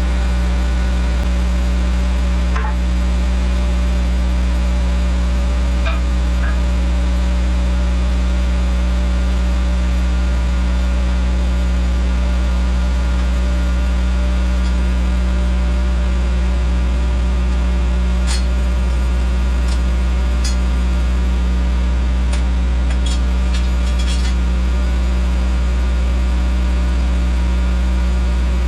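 An engine running loud and steady at constant speed, with a few sharp ticks and knocks over the last third.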